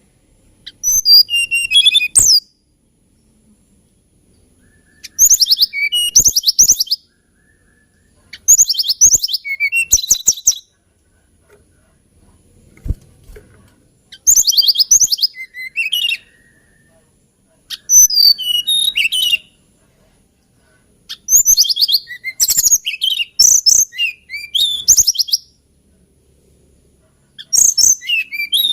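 Hill blue flycatcher (Cyornis banyumas) singing: seven short, high warbling phrases, each a second or two long, separated by pauses of a few seconds.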